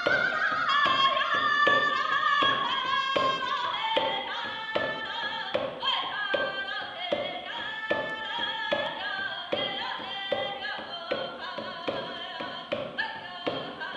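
A woman singing a Native American love song (a snag song) in a high voice whose melody starts high and steps downward, over a steady hand-drum beat.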